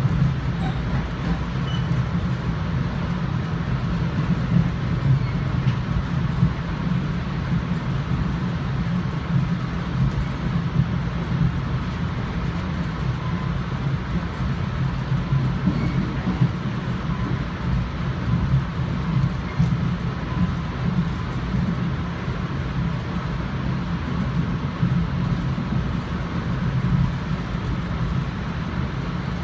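Steady low rumble inside a moving NJ Transit commuter rail coach: wheels running on the track and the car body rattling along, with no change throughout.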